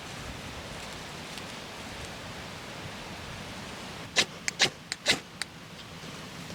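Steady outdoor hiss, then about six sharp knocks or cracks in quick succession a little past the middle, the loudest sounds here.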